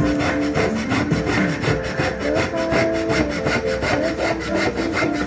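A hand tool working wood in rapid, even back-and-forth strokes, several a second, with a ringing tone that shifts pitch as it cuts.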